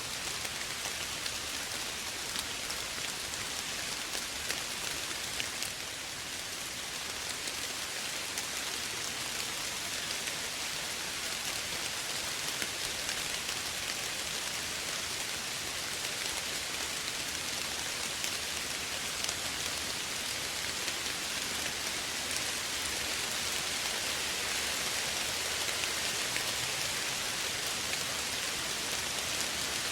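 Steady gentle rain: an even hiss of falling rain with fine patter of drops on a surface.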